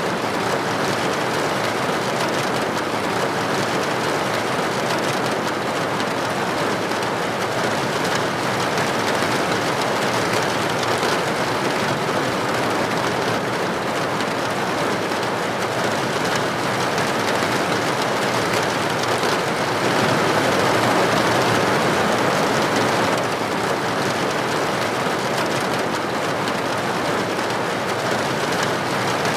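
Steady rain falling, an even dense hiss of drops that grows a little louder for a few seconds about two-thirds of the way in.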